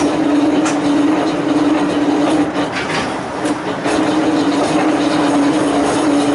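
A Volk's Electric Railway car running on its narrow-gauge track: a steady electric motor hum over the noise of wheels on rail. The hum and the overall noise drop away briefly about halfway through, then return.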